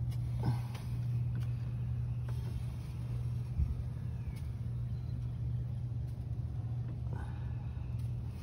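2008 Ford Mustang engine idling steadily, with a few light knocks.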